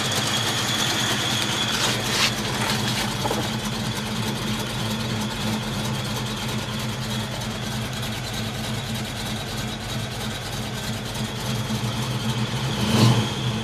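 Cammed small-block Ford V8 in a 1967 Mustang idling with a lope through long-tube headers and dual exhaust. There is a brief louder surge near the end.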